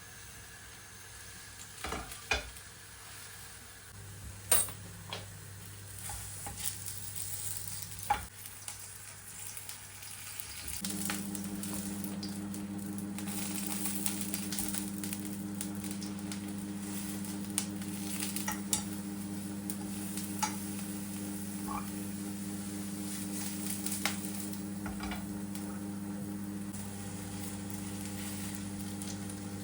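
Food sizzling in a frying pan, stirred and turned, with a few sharp knocks of a utensil against the pan in the first several seconds. About eleven seconds in, a steady electric hum starts under the sizzle.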